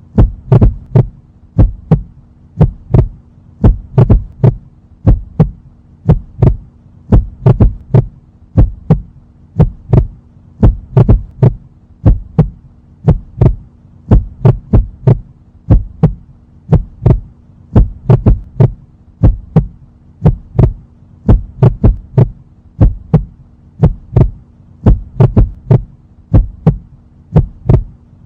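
A heartbeat sound effect: deep double thuds repeating about once a second over a steady low hum.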